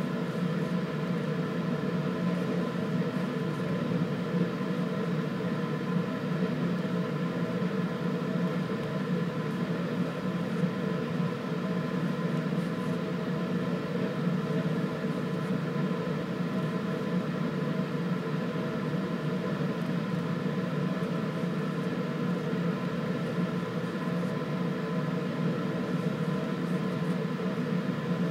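Steady machine hum made of several constant tones, as from a fan or appliance running in the room.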